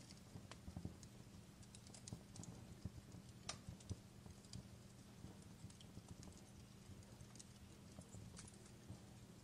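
Faint wood fire crackling: irregular small pops and snaps, several a second, over a steady low hum.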